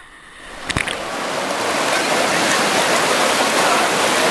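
Rushing water of a waterfall, a dense steady roar that swells up over the first second or so and then holds. There is a single knock a little under a second in.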